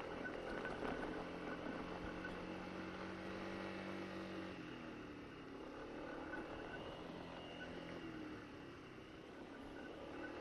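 Honda SH150i scooter's single-cylinder engine running while riding, with its pitch easing down about halfway through and picking up again, over wind and tyre noise on an unpaved track.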